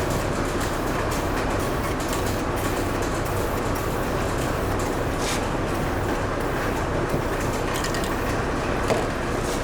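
A steady mechanical drone with a low hum, even in level throughout, like a shop fan or compressor running.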